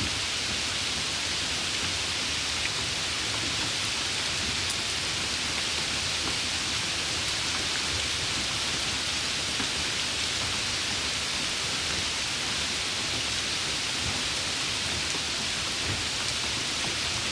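Steady summer rain: an even, unbroken hiss, strongest in the upper range, with a few faint drop ticks.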